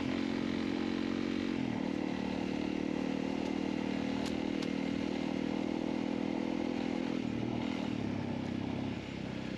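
Honda CRF300L's single-cylinder engine running at steady revs, its note shifting slightly just under two seconds in and dropping in level near the end.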